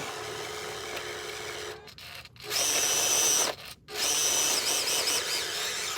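Small electric motor and gearbox of a 1/18 scale RC crawler whining under throttle. It cuts out briefly twice as the throttle is let off. In between comes a loud high-pitched whine that wavers in pitch with throttle blips near the end.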